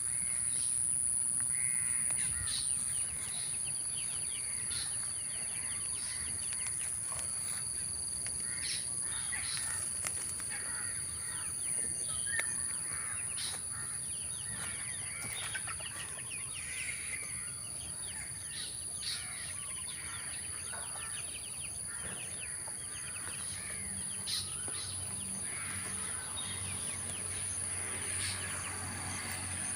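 Birds chirping and calling in many short notes, over a steady high-pitched whine.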